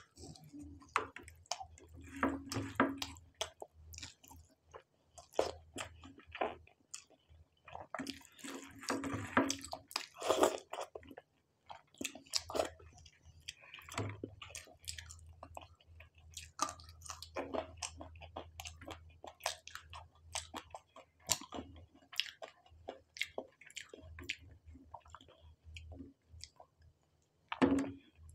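Close-miked chewing of fried prawn: irregular crunches and mouth clicks throughout, heaviest about two seconds in, again around nine to ten seconds, and once more near the end.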